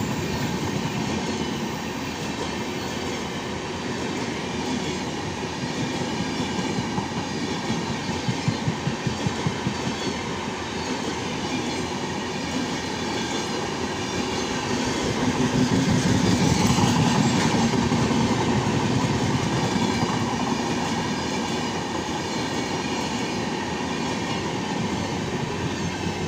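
Express train's coaches passing on the next track, wheels clacking rhythmically over rail joints with a steady rumble. It swells to its loudest about two-thirds of the way through, then eases off as the last coach goes by.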